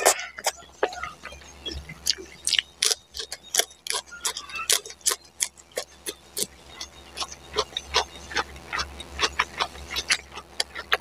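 Close-miked chewing and biting, a run of irregular crisp clicks and crunches several a second from fresh lettuce leaf being chewed along with noodles.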